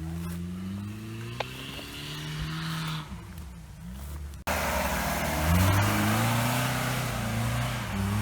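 Off-road vehicle engine revving, its pitch climbing over the first few seconds. About halfway through the sound changes abruptly to a louder rev under a broad rushing noise.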